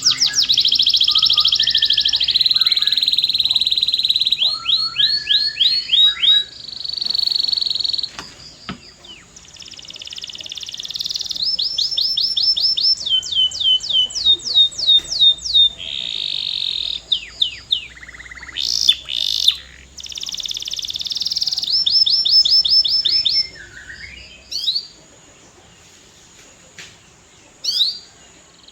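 Domestic canary singing a long, loud, high-pitched song: fast trills of repeated notes that switch to new trill types every second or two, with short pauses. There is a quieter gap with only a few single notes near the end.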